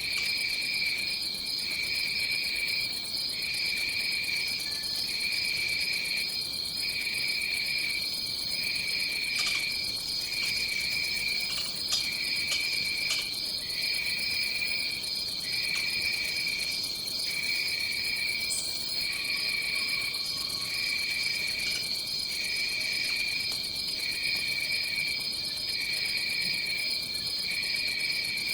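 Tropical forest insect chorus: one insect trills steadily at a high pitch while a lower trill repeats in regular phrases of about a second and a half, with short gaps between them.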